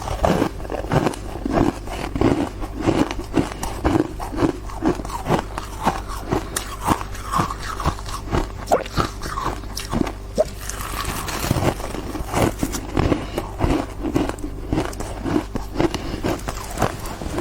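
Ice being bitten and chewed, with repeated crisp crunches in a steady chewing rhythm, about two a second.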